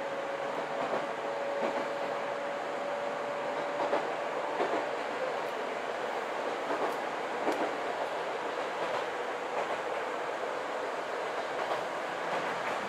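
Inside a Chichibu Railway 6000 series electric train running at speed: a steady running rumble with scattered clicks of the wheels over the track. A steady whine fades out about five seconds in.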